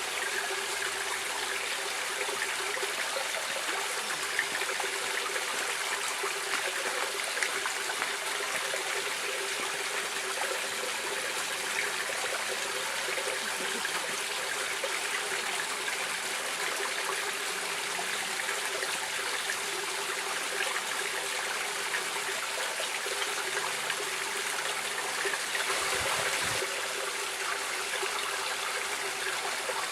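A stream running steadily, an even rushing and trickling of water with a brief slight swell near the end.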